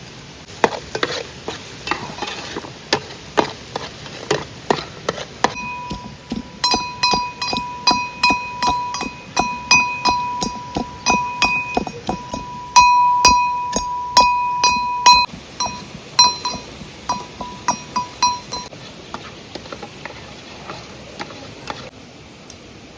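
A metal utensil clinking again and again against a bowl while mixing, a couple of strikes a second. Through the middle stretch the bowl rings with a clear tone after each strike, and the clinks thin out and fall duller near the end.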